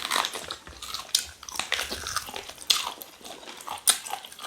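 People chewing and biting cow tail meat in pepper soup, a run of short, irregular mouth clicks and chewing noises.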